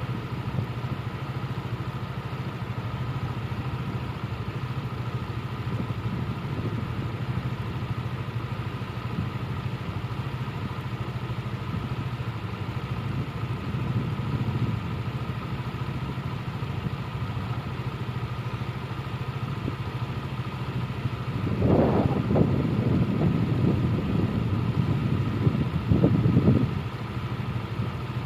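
An engine running steadily, swelling louder for a few seconds near the end.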